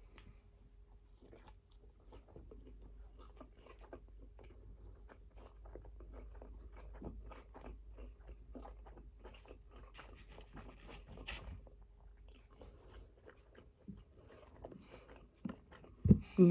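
A person chewing a bite of a McRib sandwich: soft, moist crunching and small mouth clicks, irregular and quiet. A short thump comes near the end.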